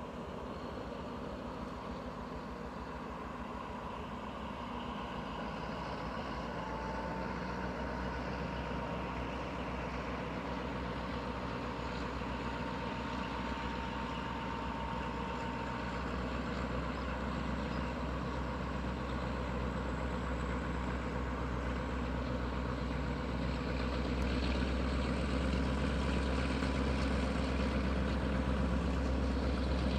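Diesel train engine running with a steady, deep hum that grows gradually louder.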